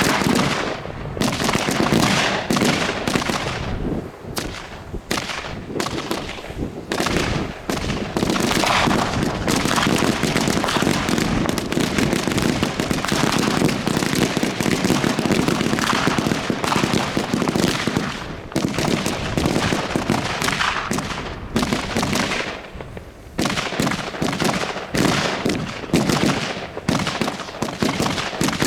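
Daytime fireworks: a dense, almost continuous barrage of sharp firecracker and shot bangs that starts abruptly and goes on with two brief lulls about two-thirds of the way through.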